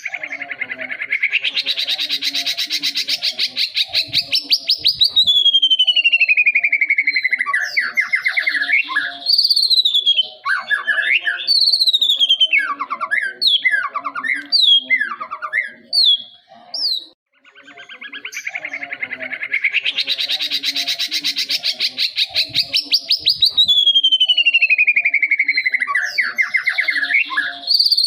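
A songbird singing: a fast buzzy trill that swells and rises, slides down into a long falling whistle, then breaks into a string of short sharp whistled notes. The same song sequence starts over about 18 seconds in, with a faint low chattering underneath throughout.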